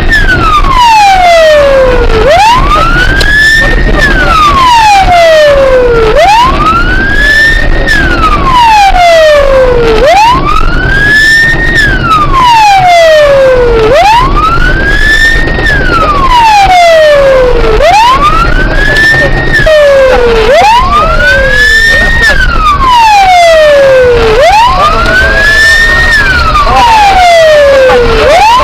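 Police car siren on a slow wail, each cycle rising quickly for about a second and falling for about three, about seven times over, loud, with a low rumble of the vehicle underneath.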